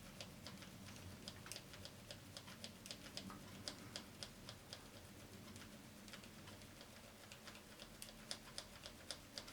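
Faint, quick clicking of the Aiwa TPR-910 boombox's record-bar switch being worked back and forth, several clicks a second at uneven strength. The switch has just been sprayed with contact cleaner and is being worked to free it: it feels sluggish, and the owner suspects crud in it.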